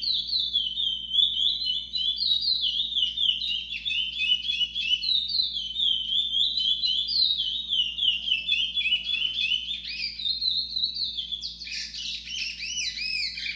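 Chestnut-bellied seed finch (curió) singing the song style called 'trovoada': a fast, unbroken run of high chirping notes, changing near the end to louder, wider-ranging looping notes.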